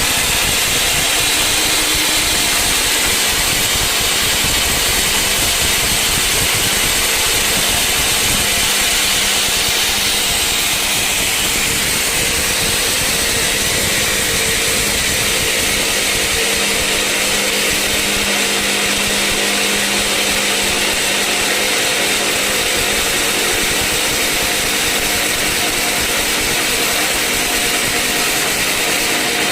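Sawmill saw and machinery running steadily, a loud even hiss high in pitch with faint steady hums beneath.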